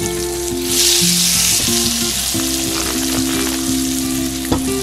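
Thick slices of French toast sizzling in melted butter in a hinged hot-sandwich pan, the sizzle swelling as the bread is laid into the hot butter about a second in. A sharp knock near the end.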